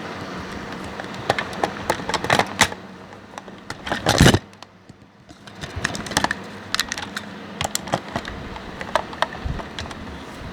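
Plastic SG Lockseed Kurumi toy clicking and clattering as it is handled, with a louder knock about four seconds in.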